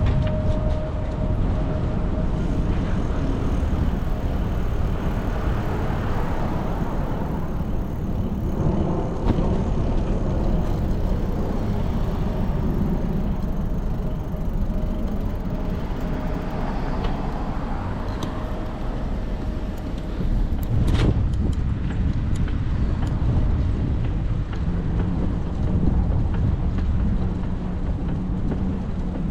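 Cars passing in city traffic, heard from a moving bicycle, over a steady low rumble of wind and road noise; a single sharp click about two-thirds of the way through.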